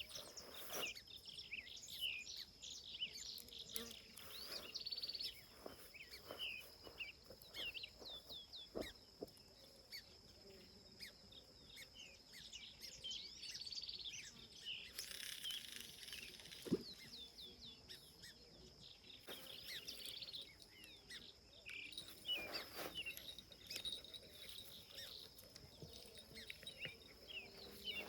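Many small birds chirping and calling, over a steady, high-pitched insect drone, with a few faint knocks and clicks now and then.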